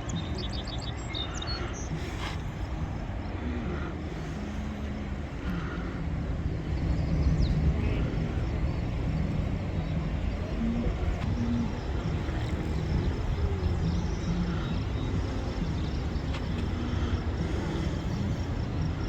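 Steady low rumble of wind buffeting the microphone on an open lakeshore. A quick series of faint high bird chirps comes in the first second or so.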